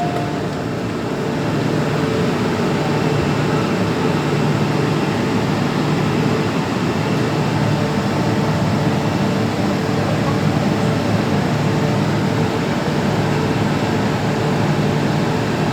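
Hong Kong MTR M-Train electric multiple unit running, a steady rumble of wheels and traction equipment with a low hum, building a little over the first couple of seconds and then holding even.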